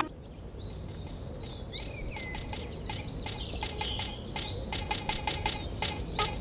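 Birds chirping and calling over a steady outdoor hiss. From about halfway in, a rhythmic clicking beat of about four clicks a second fades in and grows louder.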